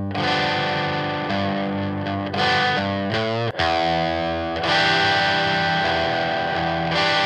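Electric guitar played through an Aion FX Corona overdrive pedal, a DIY copy of the Boss OD-1, giving a distorted, driven tone. Sustained chords change every second or so, with a brief break about three and a half seconds in.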